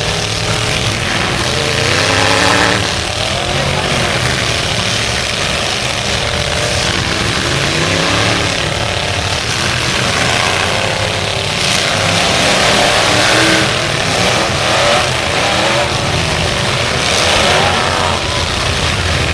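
Several full-size pickup trucks' engines revving hard at once in a demolition derby heat, their pitches rising and falling over one another.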